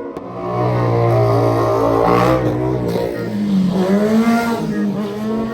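Drag-racing sportbike engines under hard acceleration. The pitch climbs, drops back about three seconds in as if shifting gear, then climbs again.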